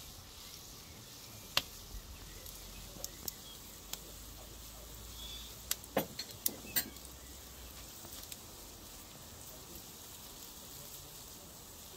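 Chopped onions frying in oil in a pot over charcoal: a faint steady sizzle with scattered sharp pops and clicks, several close together around six seconds in.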